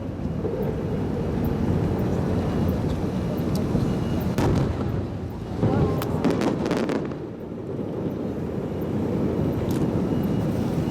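Fireworks exploding in a dense low rumble of booms, with a cluster of sharp cracks about halfway through, under the talk of the watching crowd.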